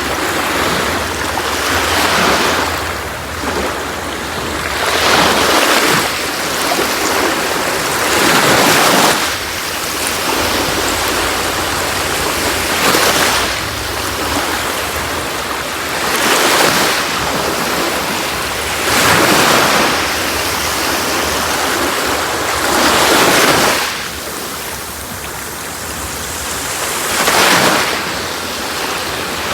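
Sea waves breaking and washing on a beach, a rushing surf that swells and ebbs in repeated surges every few seconds.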